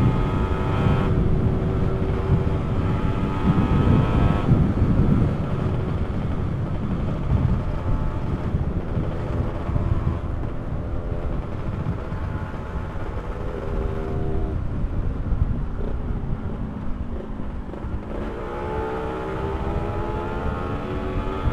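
Two-stroke motorcycle engine running while riding, with heavy wind rumble on the microphone. Near the end the engine pitch rises as it accelerates.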